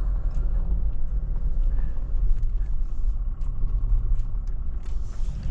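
Steady low rumble of a camper van driving on the road, heard from inside the cab, with faint scattered ticks over it.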